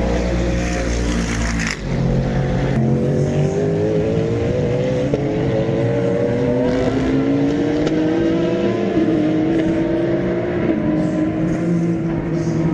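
Race cars at full throttle on a circuit. One passes close and loud in the first two seconds, then several engine notes climb in pitch through a series of upshifts.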